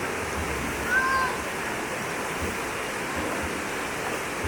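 River water rushing steadily over rocks. A brief high call or cry rises and falls once about a second in.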